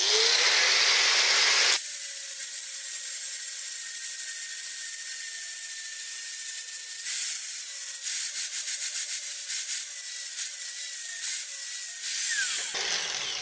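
Angle grinder spinning up and grinding the centre of a metal slide plate, with a steady high whine and rough grinding noise, then winding down with a falling whine near the end. The grinding relieves the middle of the plate so that only the outer bearing strips need hand scraping.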